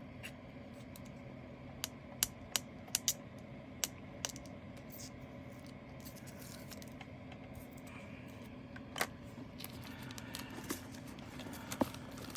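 Small sharp clicks and light rattles of plastic diamond painting drill containers being handled, a quick run of them in the first few seconds and a few more later, over the steady hum of an electric fan.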